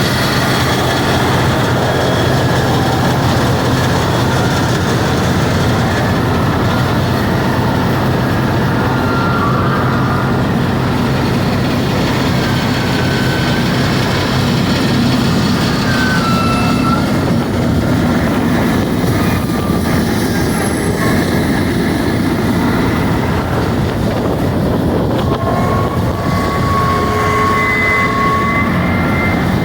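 Old drilling rig running: a loud, steady machinery din with short high squeals now and then and a longer squeal near the end.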